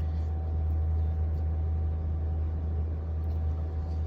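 Steady low mechanical hum with a faint steady whine above it.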